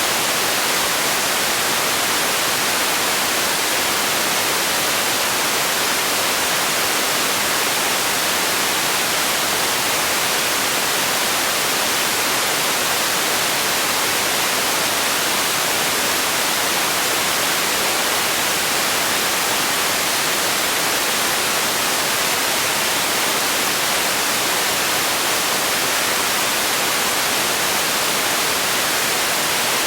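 Steady white noise for sleep and relaxation: an even, unchanging hiss, strongest in the upper range.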